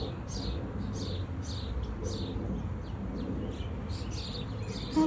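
Small birds chirping: a steady run of short, high, falling chirps, about two or three a second, over a low steady rumble.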